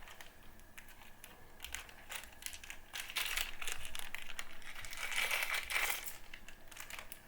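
Hands fitting small black rubber spacers over the four metal posts of a Noctua CPU cooler backplate: rustling and many light clicks and taps, busiest in the middle.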